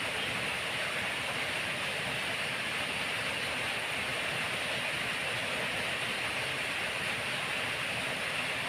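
Steady, even rain noise.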